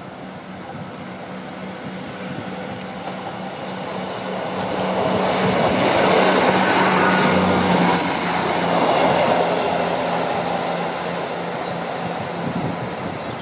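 A train passing close by. The rumble of its wheels on the rails builds to its loudest about six seconds in and then slowly fades, over a steady low hum.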